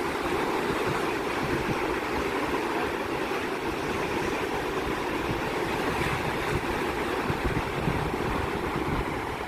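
Sea surf: a steady wash of breaking waves, with wind rumbling on the microphone.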